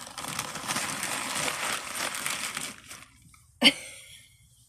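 Sandwich wrapping crinkling and rustling as it is handled for about three seconds, then a single sharp knock on the desk.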